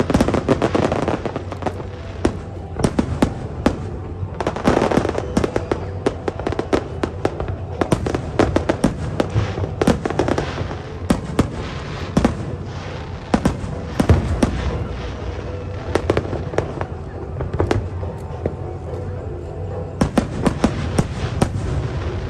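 Aerial fireworks going off in a continuous stream of sharp bangs and crackles, with denser volleys near the start, about five seconds in, and again near the end.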